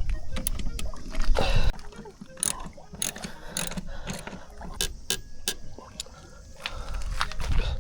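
Hand tools clicking and knocking on metal, a string of separate sharp clicks, over a low rumble at the start and again near the end.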